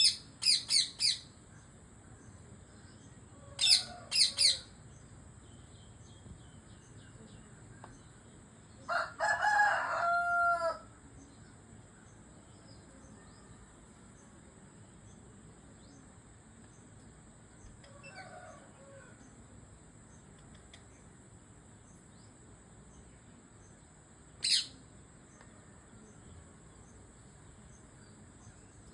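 Indian parrot giving sharp, high chirps in short bursts: four quick calls at the start, three more a few seconds later, then a single call near the end. About nine seconds in there is a longer run of lower-pitched calls lasting about two seconds, and a faint group follows later.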